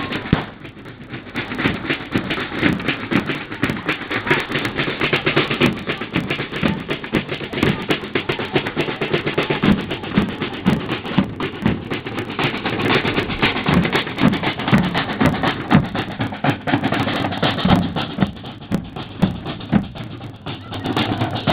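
Band music with steady drumming, as from a marching band in a procession.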